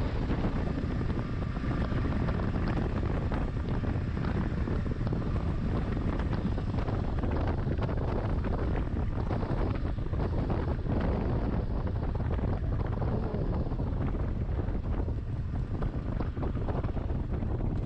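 Wind buffeting a helmet-mounted microphone on a moving motorcycle, with the motorcycle's engine running underneath as a steady low rumble.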